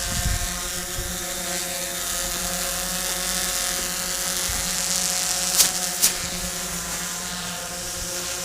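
DJI Phantom 4 Pro quadcopter's propellers and motors droning at a steady pitch. Two sharp clicks come about half a second apart, a little past halfway.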